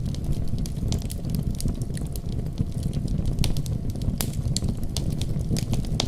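Wood fire crackling, with frequent sharp irregular pops, over a steady deep rumble of snowstorm wind.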